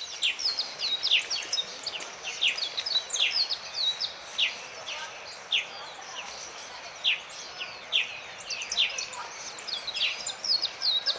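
Small birds chirping over a steady outdoor background hiss: many short, high, falling chirps, several a second, overlapping throughout.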